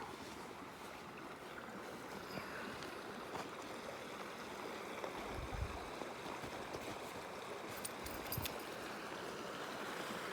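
Mountain creek running high with snowmelt runoff: a steady, even rush of flowing water.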